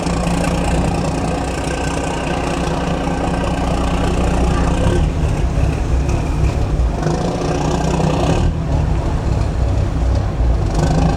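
Large diesel engine running steadily with a low, even hum.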